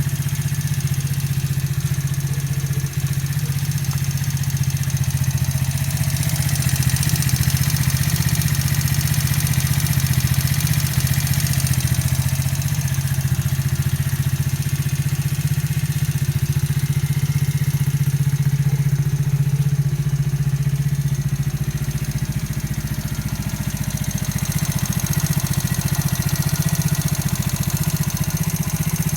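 A new four-stroke engine with about 200 km on it and valve clearances set to 0.05–0.07 mm, running steadily with a knock that the owner cannot explain and is asking about.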